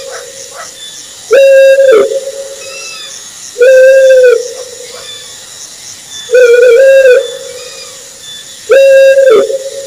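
Owl hooting: four long, even-pitched hoots, one every two to three seconds, each trailing off in an echo.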